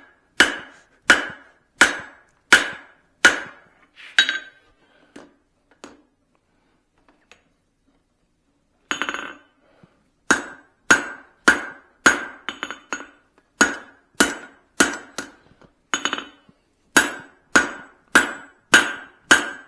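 Hand hammer striking hot steel on an anvil while forging down the peen of a hammer head: regular blows, each with a short ringing note. The blows pause for about five seconds in the middle, then resume at about one and a half a second.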